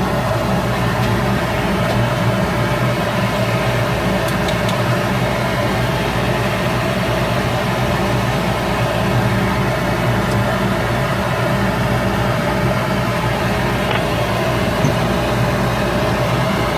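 Shop Fox W1836 midi wood lathe running steadily, a constant motor hum with an even hiss over it.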